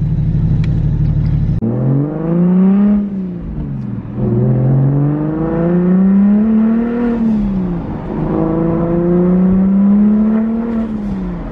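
Single-turbo BMW 135i's 3.0-litre inline-six heard from inside the cabin: a steady drone, then about a second and a half in the engine note climbs and falls three times as the car pulls away and accelerates.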